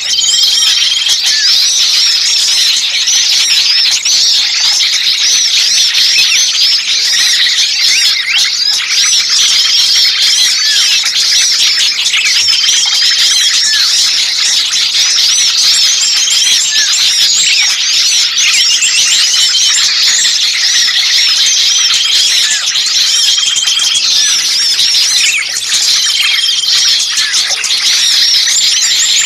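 Lure recording of many small songbirds calling noisily at once: a dense, unbroken chatter of quick high chirps and twitters, with a short flat whistled note cutting through every few seconds. It is a 'kejepit' lure, meant to imitate small birds caught and calling in alarm so that other birds come in.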